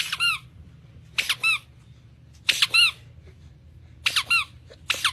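A series of short high squeaks, about one every second and a bit, each a quick two-part squeak that rises and falls in pitch, over a low steady hum.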